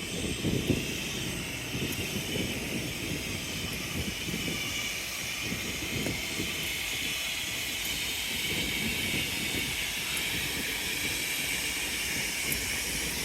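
Standing Amtrak California Zephyr passenger train idling: a steady hiss over an uneven low rumble.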